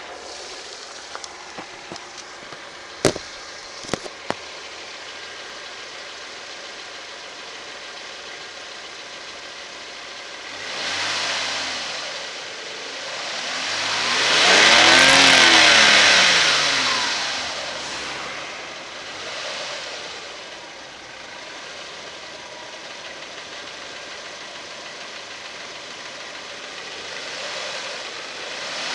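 1997 Audi A6 2.8 V6 engine idling and being revved: a short rev about eleven seconds in, then a longer rev that climbs and falls back around fifteen seconds, and a small blip near twenty seconds before it settles back to idle. A few sharp clicks come about three to four seconds in.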